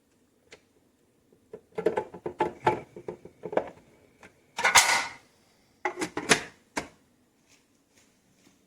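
A quick run of clicks, knocks and rattles from hard parts being handled, with a louder, longer clatter about five seconds in.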